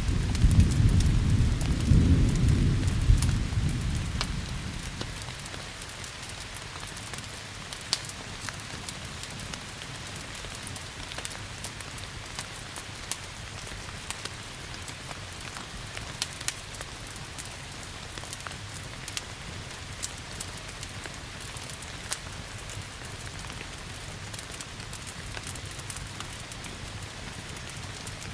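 Thunder rumbling and dying away over the first few seconds, then steady rain falling, with scattered sharp crackles and pops from a wood fire throughout.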